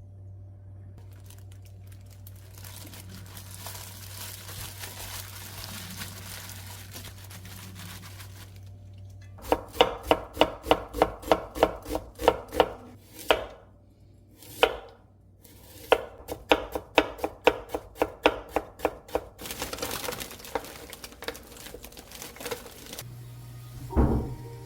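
Knife chopping on a cutting board in two quick runs of about four strokes a second, with a short pause between them, after several seconds of soft rustling. One heavier thump comes near the end.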